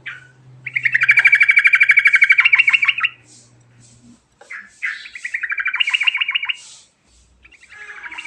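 Trucukan (yellow-vented bulbul) singing in rolling phrases: three long runs of very fast repeated notes, each about two seconds, the first the longest and loudest.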